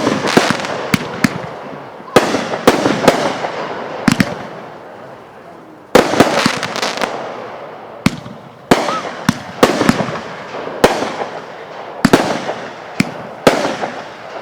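Fireworks going off in a series of volleys: every two to four seconds a sharp bang is followed by a quick cluster of cracks, then a fading rumble.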